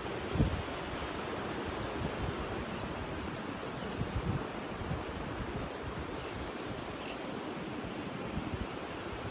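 Sea surf washing steadily on a beach, mixed with wind, with a few low thumps of wind buffeting the microphone.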